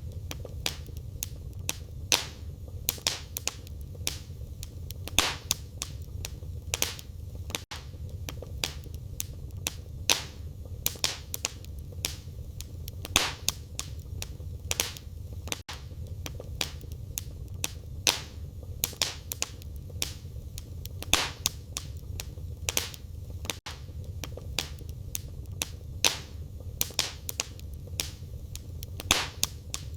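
Wood fire burning in a fireplace: firewood crackling with frequent sharp pops, some much louder than the rest, over a steady low rumble of the flames.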